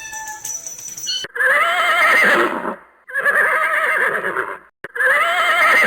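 Horse whinnying three times, each a long, wavering neigh of about a second and a half, the first starting about a second in.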